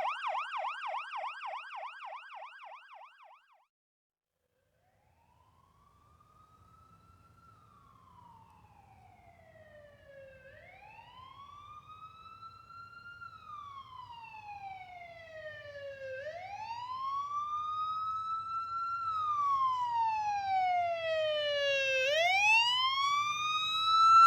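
Ambulance siren in a fast yelp fading out over the first few seconds. After a brief silence, a wail siren rises and falls about every six seconds and grows steadily louder over a low rumble, cutting off abruptly at the end.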